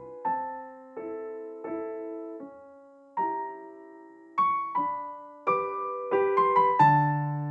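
Background piano music: a gentle melody of single struck notes and chords, each ringing and fading.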